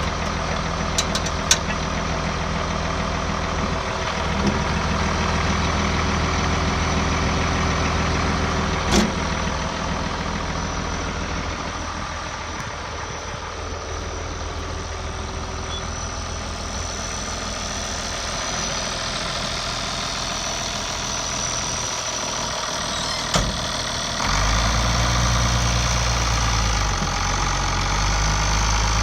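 International Harvester 966 tractor engine idling steadily, with a few short knocks. About five seconds before the end its low rumble steps up louder.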